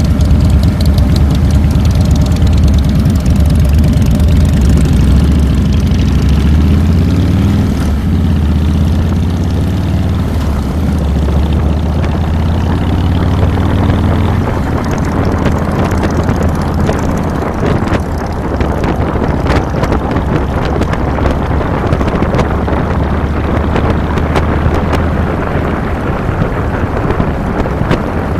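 2007 Harley-Davidson Fat Boy's Twin Cam 96 V-twin engine running under way. Its pitch rises and falls with the throttle over the first half, then settles into a steadier drone with more wind rush on the handlebar-mounted camera.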